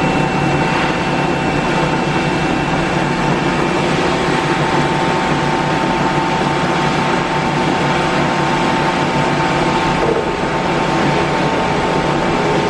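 Cincinnati Twin Grip centerless grinder running under power: a steady machine hum with a constant high whine.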